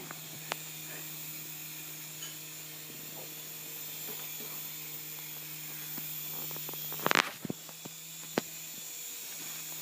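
Small electric motor and rotor of a toy helicopter buzzing steadily in flight. A few light clicks and one sharp knock about seven seconds in.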